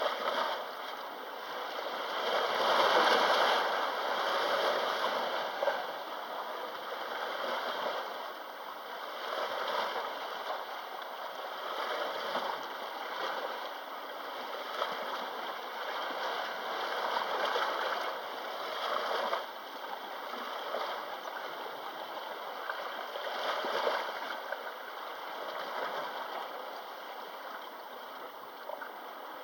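Small sea waves washing in and out at the shore, in surges every few seconds. The biggest surge comes about two to four seconds in.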